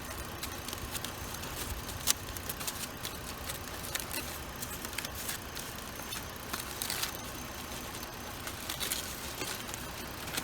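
Ford Explorer engine idling with a low, steady rumble. Scattered light clicks and rattles sit over it, with one sharper click about two seconds in.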